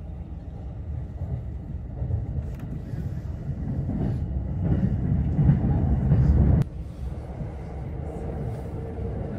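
Running noise of a JR East Tokaido Line train at speed, heard from inside the car: a steady low rumble of wheels on rail. It swells over a couple of seconds and then drops off abruptly about two-thirds of the way through.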